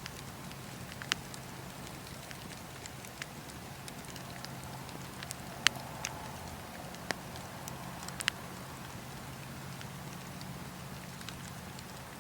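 Wood fire crackling in a fireplace: a steady low rumble with scattered sharp pops, about seven of them, the loudest about halfway through.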